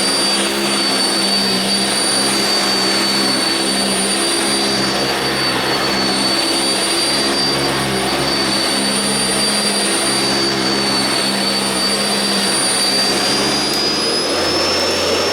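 Sanitaire SC679j commercial upright vacuum cleaner running steadily while cleaning carpet, with a high motor whine that rises slightly near the end.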